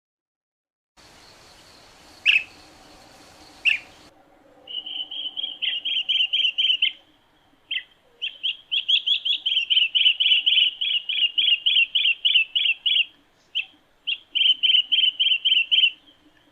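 Asian green bee-eater calling: two single chirps, then long runs of rapid, rolling trilled notes, broken by a few short pauses.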